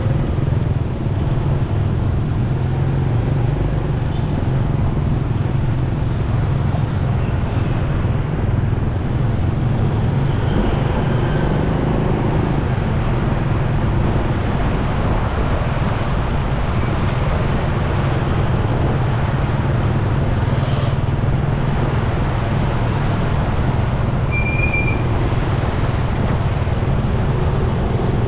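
Motorcycle riding through road traffic: steady engine and road noise with other vehicles around. A brief high beep sounds once near the end.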